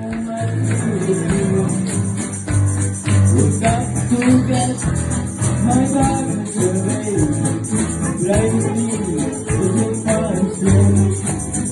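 Live acoustic music: plucked strings over a pulsing bass line, with a shaker rattling steadily to keep the beat.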